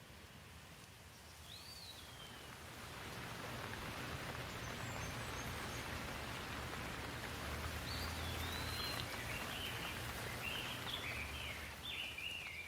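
Steady rain, swelling in over the first few seconds and then holding, with a low rumble underneath. A bird gives one short falling whistle near the start and chirps repeatedly in the last few seconds.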